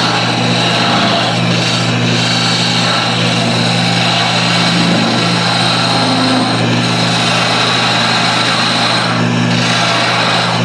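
Wood lathe running along with a shop dust collector: a steady machine hum under a constant airy hiss while a top is being turned.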